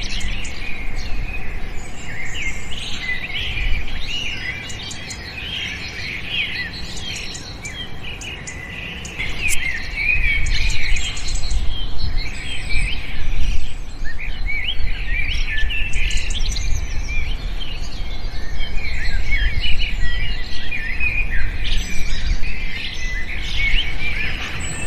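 Many small birds chirping at once, a dense chorus of short, quick chirps and trills. A low rumble underneath grows louder about nine seconds in.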